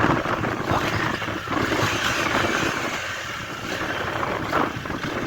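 Honda Fan 125 motorcycle's small single-cylinder engine running, with a steady rush of wind noise over the microphone.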